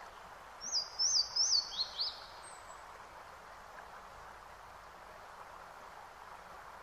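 A bird chirping: a quick run of five short, high chirps, each stepping lower in pitch, about half a second in, over a steady background hiss of outdoor ambience.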